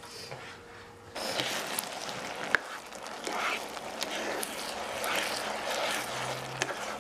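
Arborio rice and onion sizzling in butter and wine in a nonstick pan while a plastic spoon stirs and scrapes through it, with small clicks of the spoon against the pan. The sizzle comes in suddenly about a second in and then holds steady.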